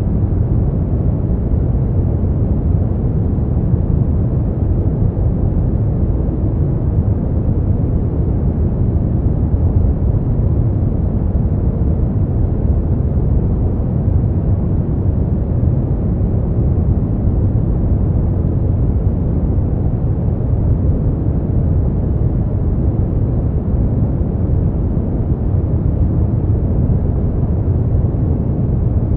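Steady noise track for sleep and relaxation: an even, deep, muffled rush with little high-pitched hiss, unchanging throughout.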